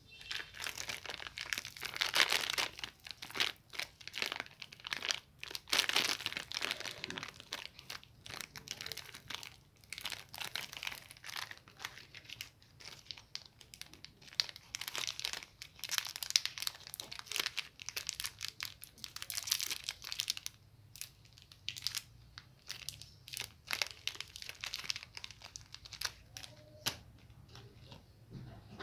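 Candy and chocolate wrappers crinkled and torn open by hand, as a dense run of irregular crackles and snaps.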